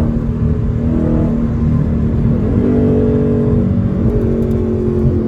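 Dodge Charger Scat Pack's 392 (6.4-litre) HEMI V8 with its mufflers deleted, running under way. The exhaust note steps up in pitch about halfway through.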